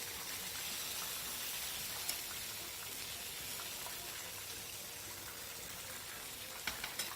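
Chicken frying in hot oil, a steady sizzle, with a couple of light clicks of utensils near the end.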